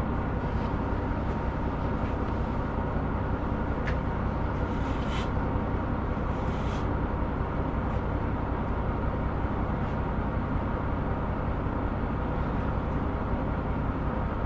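Steady onboard running sound of a KiHa 125 diesel railcar: the low drone of its diesel engine under the rumble of the wheels on the rails. A few faint clicks come between about four and seven seconds in.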